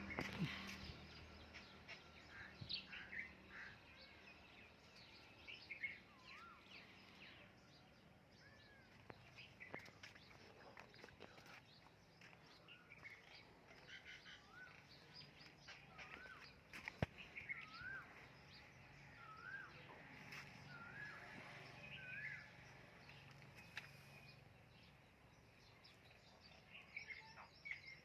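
Faint birdsong: short whistled chirps and a run of repeated looping notes about a second apart, over low background noise, with one sharp click a little past the middle.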